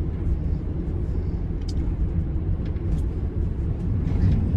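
Delivery van driving at steady speed: a steady low engine and road rumble heard from inside the cab, with a few faint clicks.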